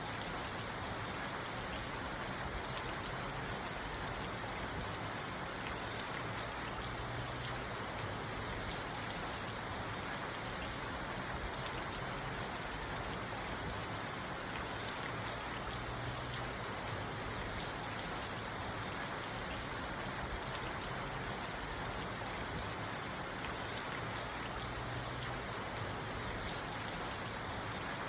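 Steady rain falling on a car's roof and windows, heard from inside the car: an even hiss of rain with fine pattering drops and no thunder.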